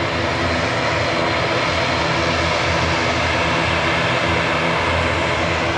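Airliner engines running at a steady, even level, with a low hum under the noise and no rise or fall in pitch.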